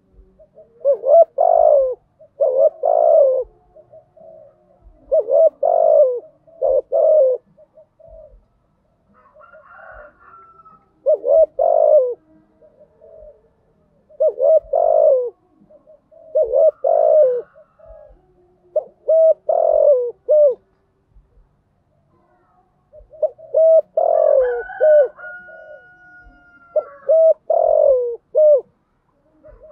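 Spotted dove cooing in repeated bouts of several coos each, with short pauses between the bouts.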